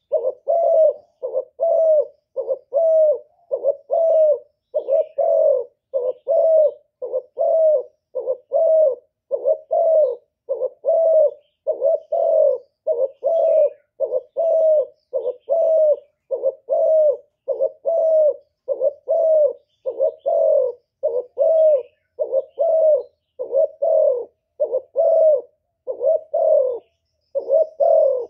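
Decoy spotted dove cooing over and over, short low coos at about one and a half a second: the challenge cooing used to lure wild doves.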